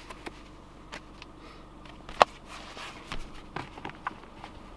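Handling noise from the car's owner's manual and service book being moved about: a few light knocks and clicks, with one sharp click about two seconds in.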